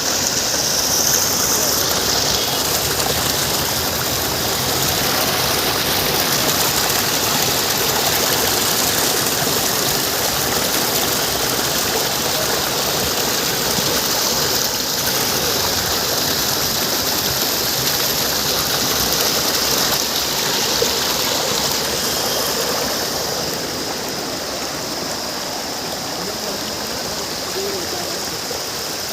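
Waterfall: a steady rush of falling water, easing slightly in level near the end.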